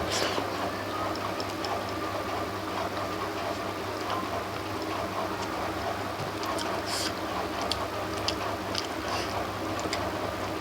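Mouth and hand sounds of someone eating: scattered short wet smacks and clicks of chewing over a steady low background hum.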